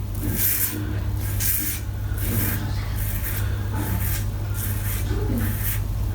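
Razor blade scraping through stubble on a lathered scalp, shaving against the grain in short light strokes, about eight of them, roughly one every second or less.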